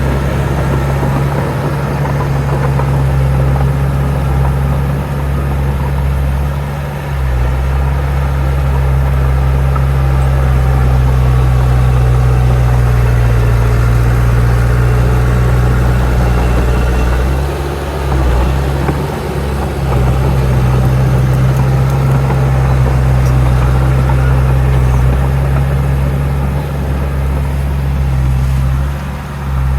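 Heavy diesel engine of earthmoving machinery running steadily with a deep, even drone, dipping briefly about seven and eighteen seconds in and again near the end.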